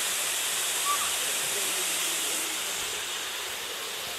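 Waterfall rushing: a steady, even hiss of falling water with no change in pitch or rhythm.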